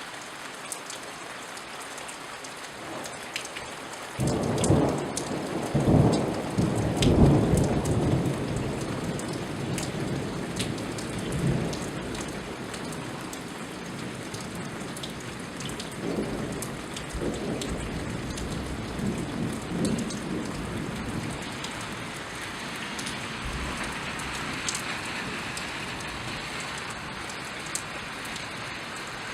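Steady rain falling, pattering on surfaces. About four seconds in, a thunderclap breaks and rumbles on for several seconds, and a second, weaker roll of thunder follows past the middle.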